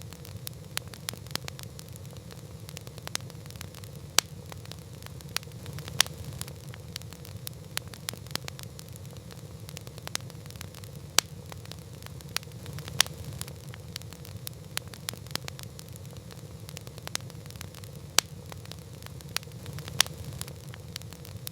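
Campfire crackling: irregular sharp pops and snaps, a few much louder than the rest, over a steady low rumble of burning wood.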